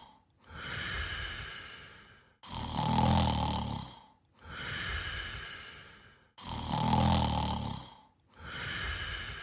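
Looped snoring sound effect: loud, low rasping snores about every four seconds, each followed by a softer, airy breath.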